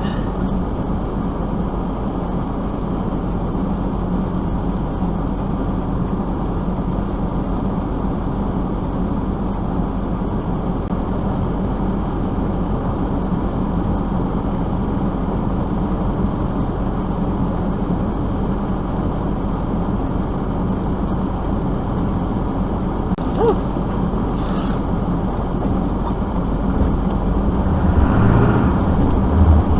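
A vehicle engine running steadily, with a dense steady hum, growing louder near the end.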